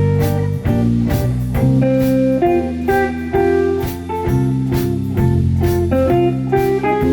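Band music with guitar, a steady bass line and a regular beat.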